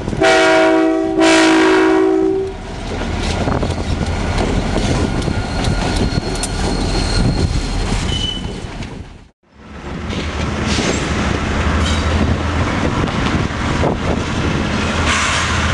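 A diesel locomotive's air horn sounds two blasts, a short one then a longer one, over the rumble and clatter of a freight train rolling past. After an abrupt cut about halfway through, another freight train passes with a low diesel engine drone and steady wheel clatter on the rails.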